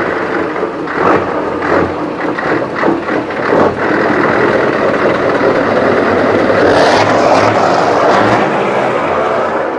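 Heavy truck driving past slowly, its diesel engine running with a low hum under the noise of the tyres. A run of knocks and rattles comes in the first half, and the noise swells after the middle as the truck passes close.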